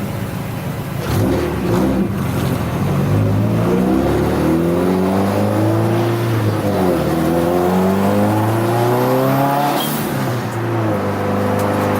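Turbocharged Subaru WRX STi flat-four heard from inside the car under hard acceleration on track. The engine pitch climbs, drops at a gear change about seven seconds in, climbs again, and falls with a brief hiss about ten seconds in.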